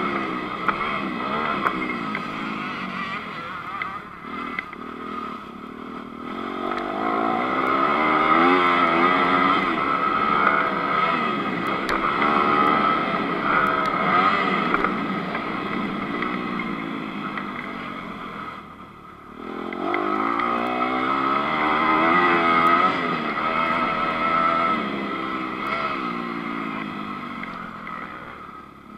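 Honda CRF250 four-stroke single-cylinder motocross engine heard on board, revving up and easing off again and again as the bike accelerates through the gears along a dirt track. About two-thirds through, the throttle is shut and the revs fall away sharply, then the engine picks up and climbs again.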